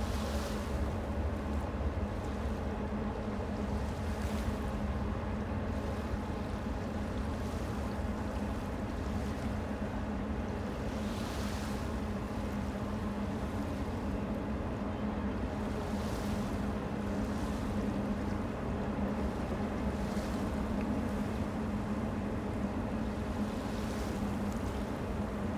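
Freight train rolling past: a steady rumble of the cars on the rails with a constant low hum, and now and then a brief swell of hiss.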